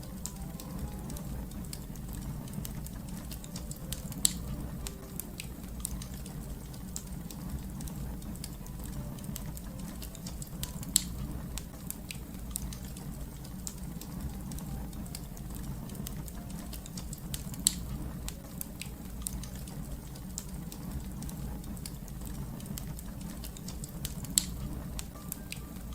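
Wood fire crackling: a steady low rumble under frequent small snaps and ticks, with four louder pops spaced evenly through.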